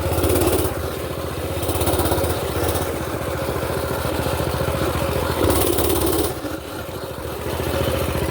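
Small mini-bike engine running under way, with louder surges of throttle three times.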